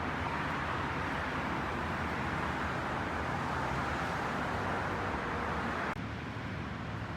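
Steady noise of fast-moving highway traffic, a continuous wash of tyre and engine sound. The level drops slightly and suddenly about six seconds in.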